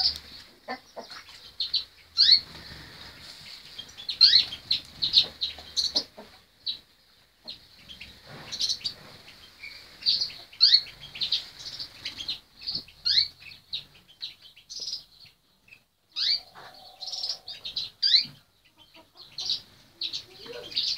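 Birds chirping: many short, high-pitched chirps in quick succession, some rising in pitch, with faint rustling and soft knocks between them.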